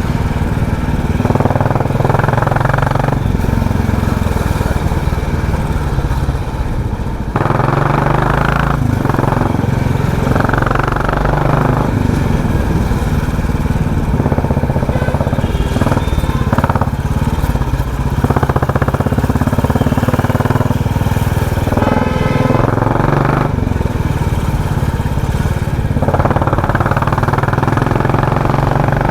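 Royal Enfield Classic 350's single-cylinder engine running under way through a loud aftermarket exhaust, a steady low drone that swells and eases every few seconds.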